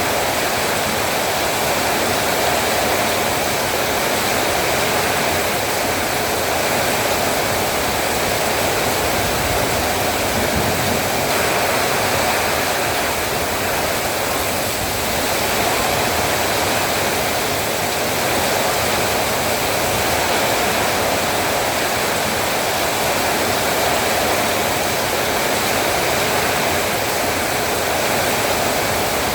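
Heavy rain pouring steadily, a dense even hiss with no separate drops standing out.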